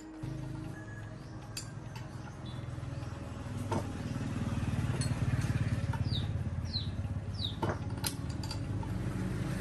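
A machine motor running steadily, starting and stopping abruptly and growing louder towards the middle, with scattered metallic clinks and a few short squeaks.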